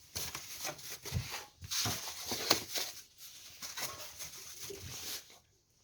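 Wood fire crackling and hissing inside the firebox of a Kratki Koza K6 stove-fireplace that is drawing well, with irregular crackles that fall away near the end.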